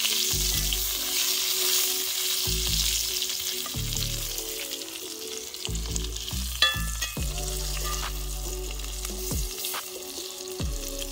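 Quartered red potatoes sizzling in butter in a cast-iron skillet, with a metal spatula scraping and stirring them in the pan.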